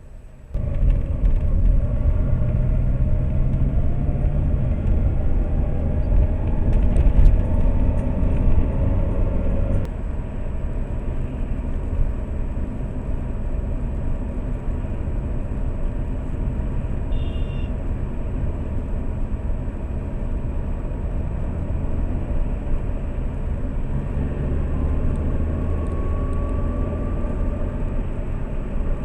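Lada Priora's engine and road noise heard from inside the cabin through a dashcam: the engine pitch rises as the car accelerates for about the first ten seconds, then the car runs steadily, with a slight rise again near the end.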